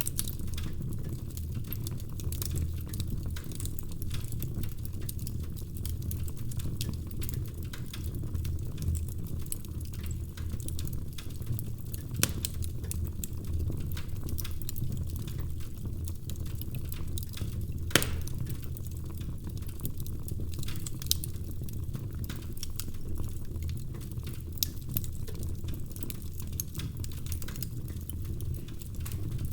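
Logs burning in a fireplace: a steady low rumble of the flames with constant small crackles and snaps, and two louder sharp pops, one about twelve seconds in and another about eighteen seconds in.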